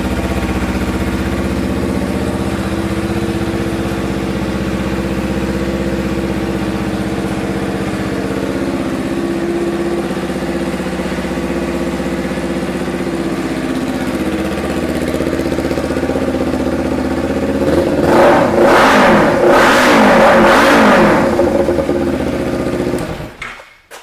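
2014 Kawasaki Ninja 300's parallel-twin engine idling steadily through an aftermarket shorty exhaust, then revved in a few quick blips about three quarters of the way in, settling back to idle and shut off suddenly near the end.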